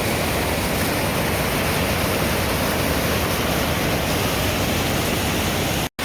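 Waterfall at Dismal Falls, a steady rush of falling water, cut off abruptly near the end.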